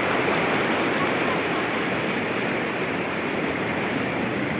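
Sea waves breaking and washing on the shore, a steady rush of surf.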